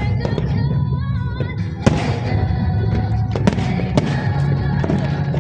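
Fireworks bursting, with a few sharp bangs from about two seconds in and crackle between them, over loud music with a steady low beat.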